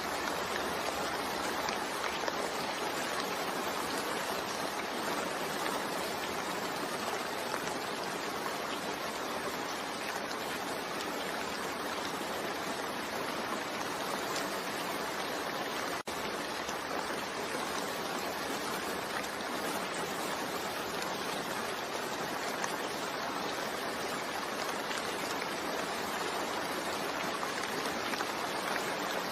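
Steady rain falling, an even hiss of many drops without distinct individual patters, broken by a split-second gap about halfway through.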